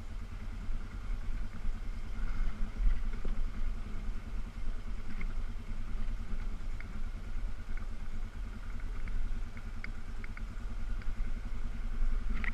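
Four-wheeler ATV engine running steadily at low revs with an even pulsing rumble. A few light clicks and rattles come in the second half.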